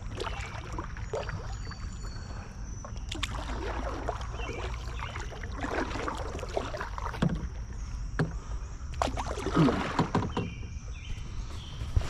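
Kayak paddle strokes splashing and dripping in the water, with scattered light knocks, over a low steady rumble.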